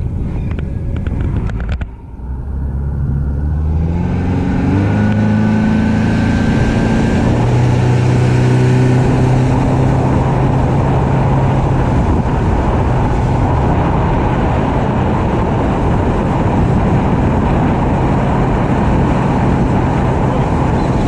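Yamaha outboard motor on a bay boat throttling up: from about two seconds in its pitch climbs for several seconds, then holds steady at cruising speed over a loud, steady rush of wind and water.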